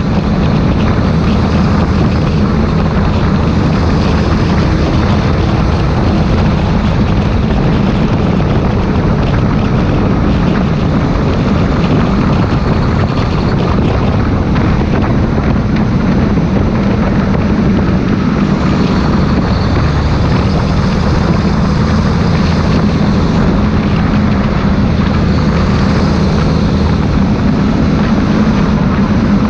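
Claas Xerion 3800 tractor's diesel engine running steadily under constant load, with a faint high whine that rises and falls during the second half.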